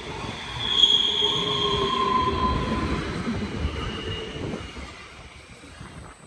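A train's steel wheels squealing against the rails as it runs past, several high squeal tones over a low rumble. The squeal jumps up about a second in and fades away over the last couple of seconds.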